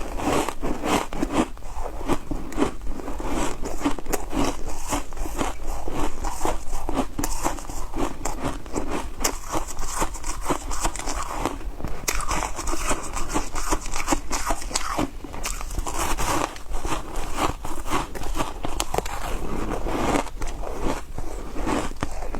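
Ice being bitten and chewed close to the microphone: a dense, continuous run of crackling crunches.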